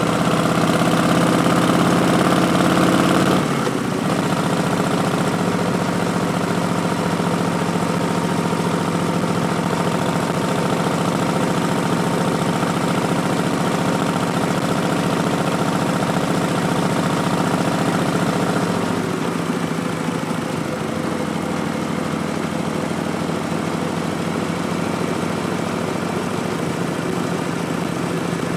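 Harley-Davidson Street Bob's Milwaukee-Eight 107 V-twin, breathing through Vance & Hines Twin Slash slip-on exhausts, running under way. Its note climbs for the first few seconds and drops suddenly after about three and a half seconds. It then holds steady and falls to a lower, quieter note about two-thirds of the way through.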